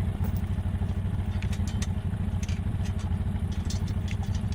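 An ATV engine running at low, steady revs, with scattered light clicks and rattles over it.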